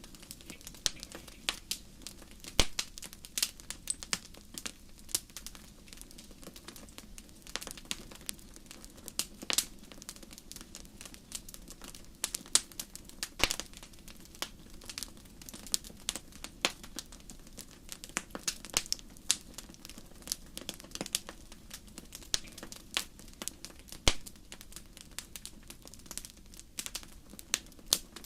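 Wood fire in a fireplace crackling: dense, irregular sharp pops and snaps over a steady low rumble of flame, with a few louder pops scattered through.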